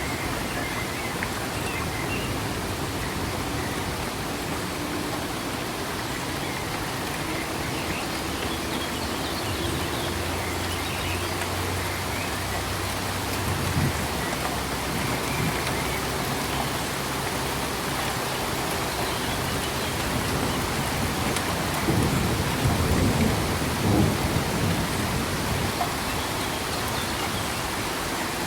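Steady rain falling, with low rumbles of thunder twice: one about halfway through and another, louder one near the end.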